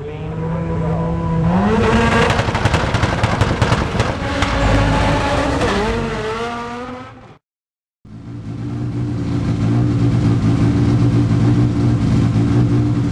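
Car engine sound: an engine revs up, its pitch rising about two seconds in and then wavering, and it cuts off suddenly about seven seconds in. After a short silent gap, engine sound fades in again and holds a steady low pitch.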